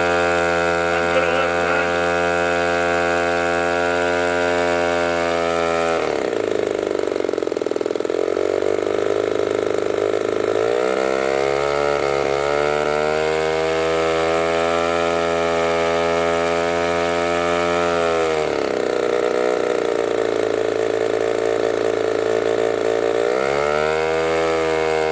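RCGF 20cc two-stroke gasoline model engine running on a break-in test run: it idles, is revved up to high speed for about four seconds, settles at a middle speed, is revved up high again, then drops back to idle near the end.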